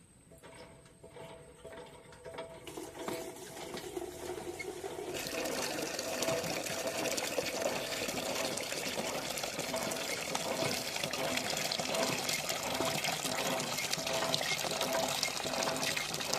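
Water running and splashing, building up over the first few seconds, then running steadily until it cuts off suddenly at the end.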